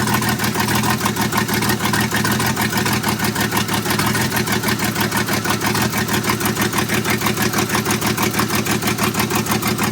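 1984 GMC S15 pickup engine idling on the choke after a long-parked cold start, with a steady, rapid pulsing beat. It is running rough, not firing on all cylinders.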